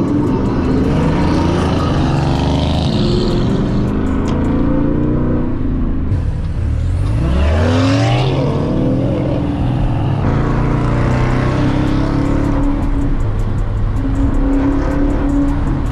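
Ford Mustang GT's 5.0-litre Coyote V8 running through a loud aftermarket exhaust under acceleration. The engine note falls about six seconds in, then climbs steeply as it revs up, and settles into a steadier drone near the end.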